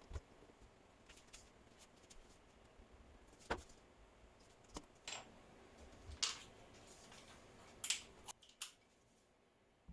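Small workshop parts or hand tools being handled: a scattered series of sharp clicks and knocks, about seven in all, over a faint steady background that drops away near the end.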